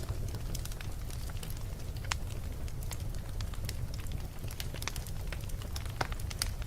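Wood fire burning in a fireplace: a steady low rumble of the flames with irregular crackles and pops from the burning wood.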